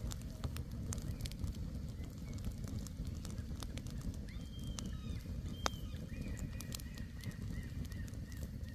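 Campfire crackling with sharp pops scattered throughout, over a low steady rumble. Gulls call faintly, a couple of short calls about halfway through and a run of small repeated cries near the end.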